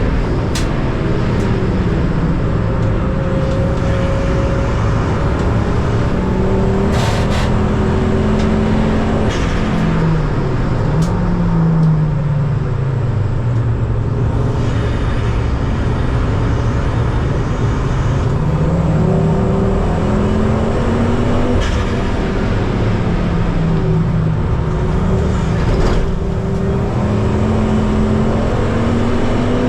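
Ford Focus ST race car's engine running hard on track, its pitch falling and climbing several times as it slows for corners and accelerates out of them.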